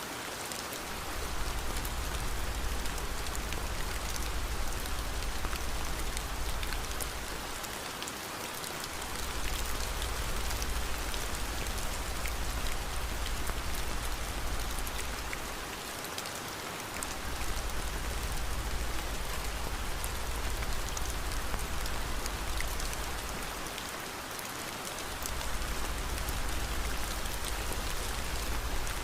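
Steady rain falling, an even, dense hiss with scattered fine drop ticks. A low rumble runs underneath and dips away briefly about every eight seconds.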